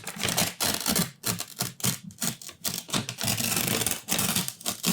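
Close-miked rustling and crinkling of paper food packaging being rummaged through: a dense, irregular run of quick crackles and taps.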